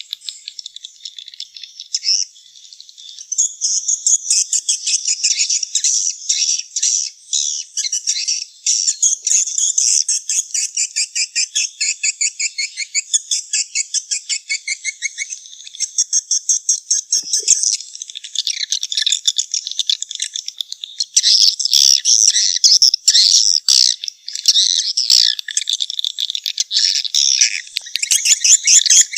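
Swiftlets calling in a dense, high-pitched chattering twitter of rapid repeated chirps. This is a swiftlet call recording of the kind played to draw swiftlets into a nesting house. It grows louder and busier about two-thirds of the way through.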